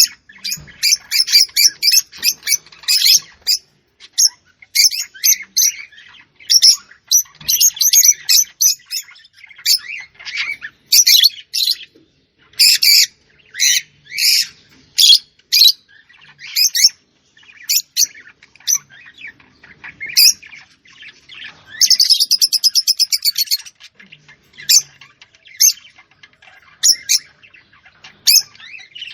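Small birds chirping in quick, repeated high calls, with a fast trill about twenty-two seconds in.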